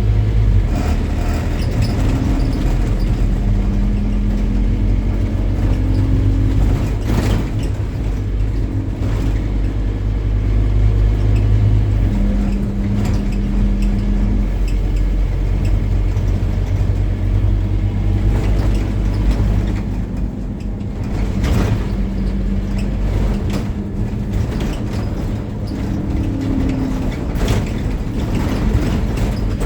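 Scania N270UD OmniCity double-decker bus, its five-cylinder diesel engine running as the bus drives, the engine note rising and falling in pitch. A few short, sharp mechanical sounds cut in now and then.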